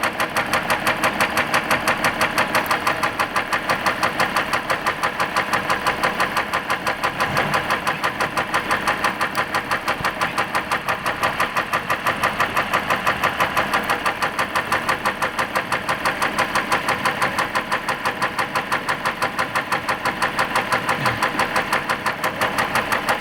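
3.0-litre diesel engine idling with a severe, regular knock, about four to five knocks a second.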